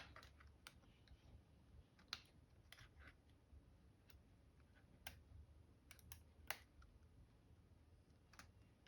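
Faint, irregular small clicks and taps of plastic laptop parts being handled as the keyboard's ribbon cables are pushed back into their connectors on a Dell Latitude E7440.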